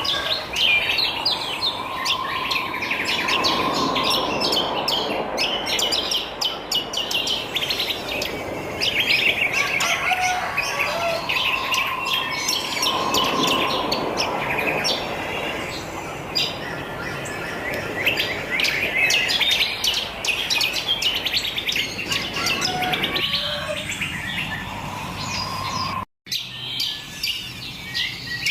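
Many wild birds chirping and twittering at once, a dense chorus of short, high, overlapping calls. A lower, held note rises out of the chorus every nine seconds or so. The sound cuts out completely for a split second near the end.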